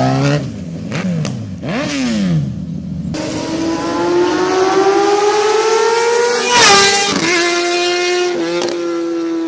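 Superbike engine under way: the revs drop and swoop in the first few seconds, then climb steadily. About six and a half seconds in there is a short burst and the pitch steps down, as in an upshift, after which the engine runs on at a steady note.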